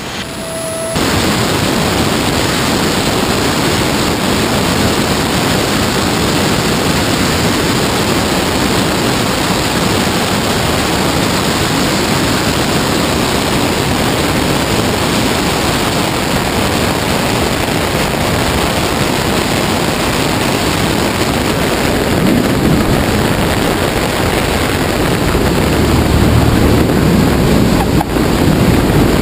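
Steady rushing wind noise from airflow over a wing-mounted camera on a Cessna 172 on final approach, with the aircraft's engine running beneath it. A deeper rumble comes up in the last few seconds.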